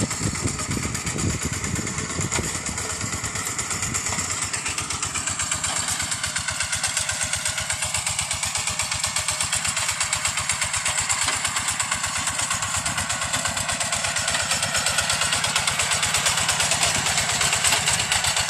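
Tractor engine running steadily while ploughing a rice field, with a rapid even beat, growing louder toward the end.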